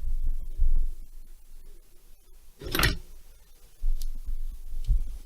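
Parts and tools being handled during a chainsaw overhaul: low handling rumble, one short scraping clatter a little past halfway, and a couple of faint clicks near the end.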